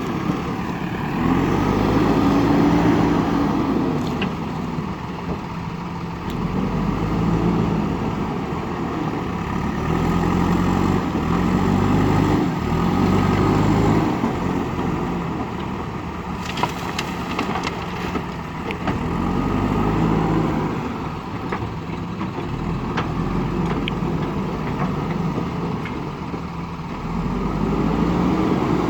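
Diesel engine of a JCB backhoe loader running and revving up and down every few seconds as it works under load, with a few sharp knocks around the middle.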